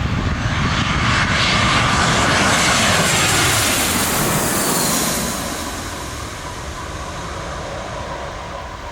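Airliner passing low and close: the engine roar builds, peaks with a pitch that falls as the aircraft goes by, then eases to a lower rumble.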